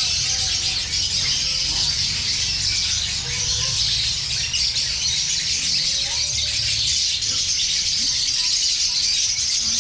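A large flock of caged lovebirds chattering and screeching together, a continuous high-pitched din.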